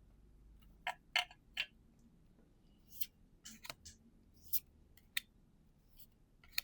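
Pokémon trading cards being handled one by one: a string of short, crisp snaps and flicks at uneven intervals as cards are flipped over and set down.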